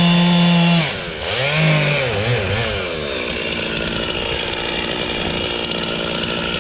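Two-stroke chainsaw running at high revs, then the throttle drops and the pitch falls and wavers for a couple of seconds before it settles into a steadier, lower running sound.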